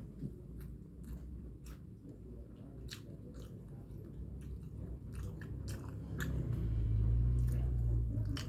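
Close-up chewing and biting, with wet mouth clicks and smacks, of someone eating egg noodles, egg and rice. A low rumble swells up about six and a half seconds in and is the loudest thing near the end.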